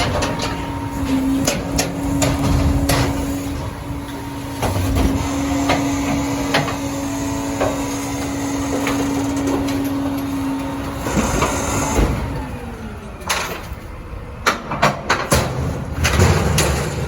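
Heil Dura-Pack rear-loading recycling truck working: a steady machine whine under many sharp clanks and clatters as recyclables and carts hit the hopper. The whine cuts off about twelve seconds in with a knock, and a quick run of bangs follows near the end.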